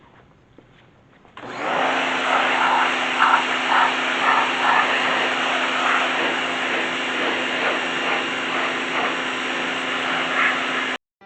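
Small electric pressure washer running and spraying: a steady motor hum under a loud rush of water jet that starts abruptly about a second and a half in and cuts off suddenly near the end.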